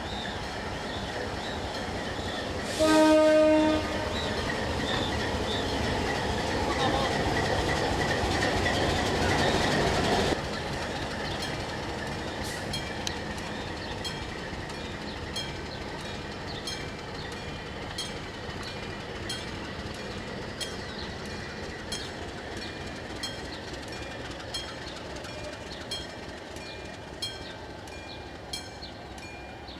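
Diesel locomotive sounding one short horn blast about three seconds in, then the train's engine and rolling rumble building as it passes, cut off suddenly about ten seconds in. After that, railcar wheels click over the rail joints in a steady rhythm.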